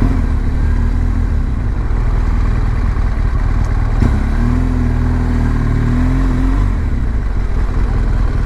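BMW R1200GS boxer-twin motorcycle being ridden, its engine and the road and wind noise steady, the engine note wavering a little partway through. A single sharp knock about four seconds in.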